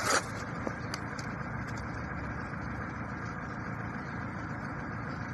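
Steady low rumble like an idling vehicle engine, with a sharp click at the start and a couple of light ticks about a second in.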